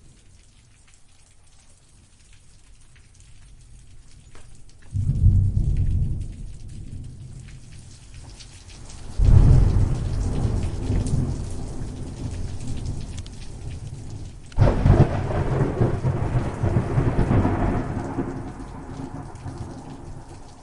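Steady rain pattering, with three rolls of thunder. Each starts suddenly, about five, nine and fourteen seconds in, and rumbles away over several seconds. The second and third are the longest.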